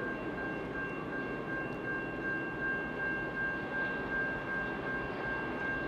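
Distant diesel locomotives of an approaching grain train, heard as a low steady rumble, with a steady high-pitched tone running over it.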